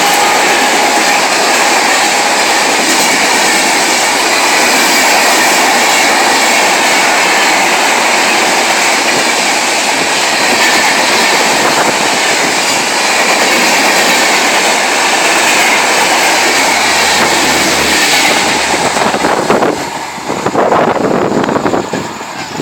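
Sealdah Rajdhani Express passenger coaches running past at speed close by: a loud, steady rumble and rattle of wheels over the rails. It drops away about nineteen seconds in as the end of the train goes by.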